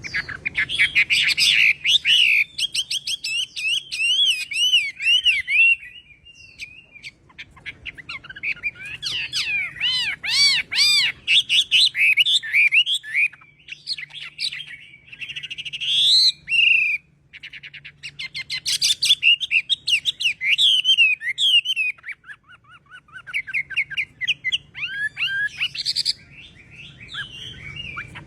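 Chinese hwamei singing: long runs of loud, varied whistled phrases and rapid repeated notes, broken by a few short pauses.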